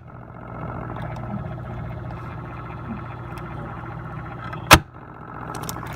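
Whirlpool refrigerator knocking once, sharp and loud, about three-quarters of the way in, over a steady running hum. The knocking comes in spells of a minute or two after the inside temperature has risen, such as after the door was left open; its cause is unknown.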